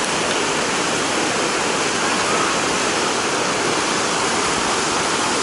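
Colorado River whitewater rapid rushing in a steady, even wash of water noise.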